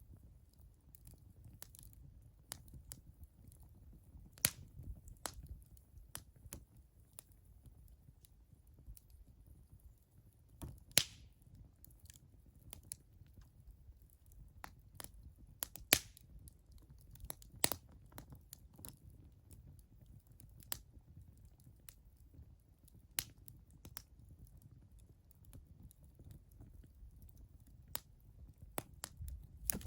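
Wood fire crackling, with irregular sharp pops and snaps, a few of them louder, over a faint low steady rumble.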